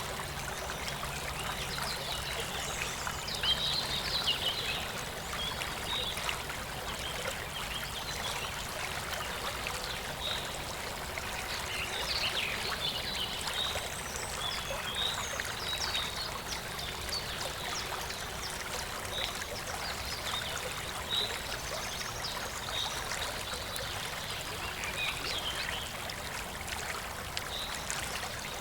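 A waterfall's water rushing steadily, with many short bird chirps and calls over it.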